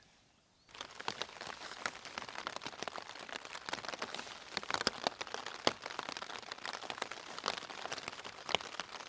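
Heavy rain falling on a tent's fabric, a dense patter of countless drop impacts that starts under a second in after a brief quiet moment.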